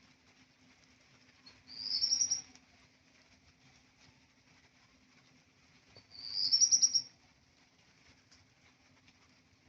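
Redstart singing two short song phrases about four seconds apart, each a brief note followed by a quick, rising, high-pitched phrase.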